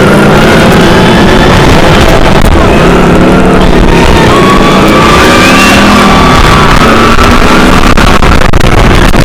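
Intamin motorbike roller coaster train running along the track with a loud rumble, under the ride's onboard music.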